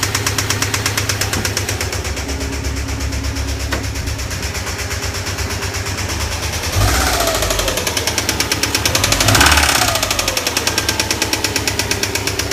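2008 Subaru WRX STI's turbocharged flat-four running with a fast, steady rhythmic knock, revved briefly twice, about seven and nine and a half seconds in. The knock is from a spun connecting-rod bearing: the engine needs a rebuild.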